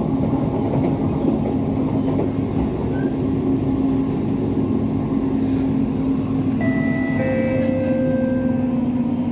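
Siemens C651 MRT train running at speed, heard from inside the car: a steady rumble of wheels on rail with a constant motor hum. About two-thirds of the way through, several higher steady tones join in.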